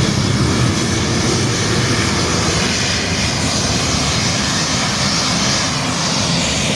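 Boeing airliner's jet engines running loud and steady: a dense rumble with a high hiss over it, easing slightly over the few seconds.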